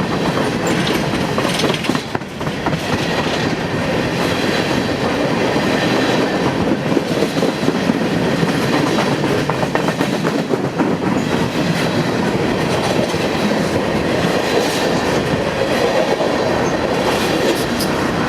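Train cars rolling past close by, a steady rumble with the wheels clicking over the rail joints.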